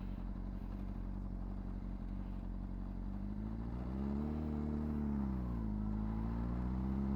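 Honda CBR600RR's inline-four engine running at low revs, then revving up about three seconds in, easing back down and picking up again near the end, as the bike is ridden through a slow U-turn in second gear.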